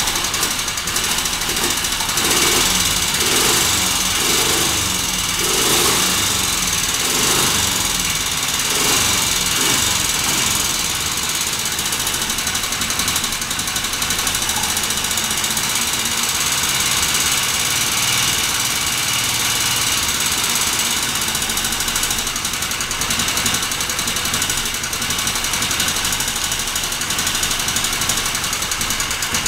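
Simson AWO 425 S's single-cylinder four-stroke engine running on the stand just after starting. It speeds up and slows several times in the first ten seconds, then runs evenly.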